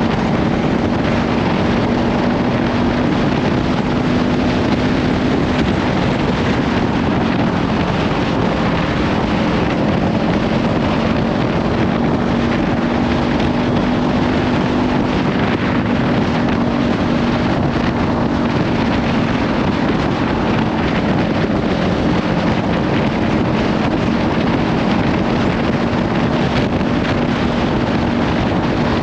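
Kawasaki Ninja 500 parallel-twin with a LeoVince slip-on exhaust cruising at a steady speed, its engine note holding even, under heavy wind noise on the microphone.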